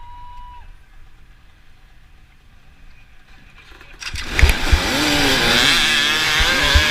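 Off-road motorcycle engines starting up loudly about four seconds in, revving with rising and falling pitch, after a short, quiet lead-in.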